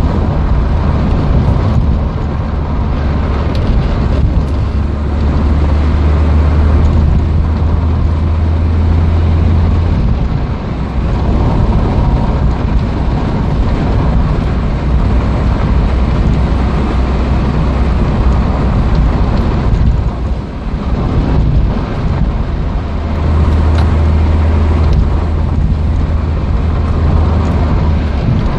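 Peugeot 205 1.6's petrol four-cylinder engine and road noise heard from inside the cabin while driving. The low engine drone eases off about a third of the way in and comes back strongly near the end, with the loudness dipping briefly twice.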